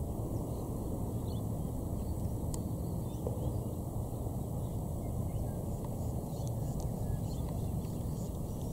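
Faint, scattered short bird chirps over a steady low rumble of outdoor background noise.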